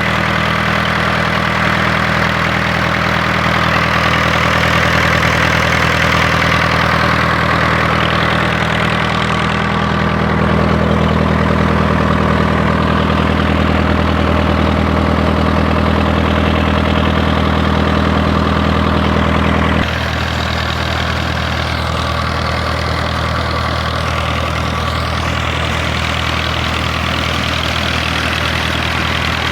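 Perkins four-cylinder diesel engine running steadily at constant speed, driving a coupled high-pressure water pump. The sound drops a little in loudness about two-thirds of the way through.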